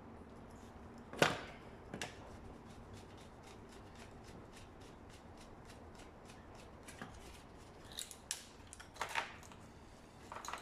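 Scattered metallic clicks, taps and rustles of hand tools and parts being handled while a scooter engine is taken apart. The loudest is a sharp click about a second in, with a small burst of clicks near the end.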